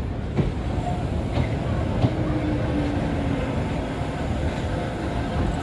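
Passenger coaches of an Indian Railways express rolling past along the platform as the train pulls in: a steady rumble of wheels on rail, with a few light knocks in the first two seconds.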